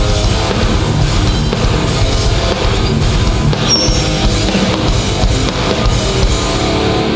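Hardcore punk band playing live without vocals: distorted electric guitars, bass and a driving drum kit.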